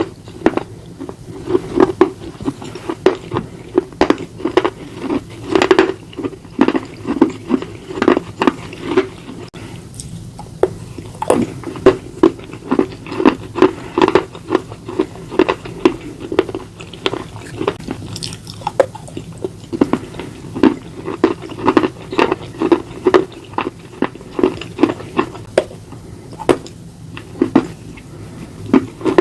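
Close-up biting and chewing of slate bars: repeated sharp crunches, often several a second, with a brief lull about ten seconds in.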